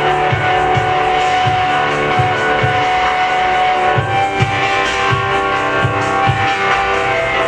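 A live rock band playing an instrumental passage: held guitar and keyboard-like chords ring over a steady low kick-drum beat.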